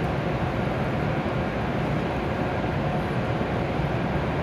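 Steady low rumble and hum of W7 series Shinkansen trainsets standing stopped at the platform.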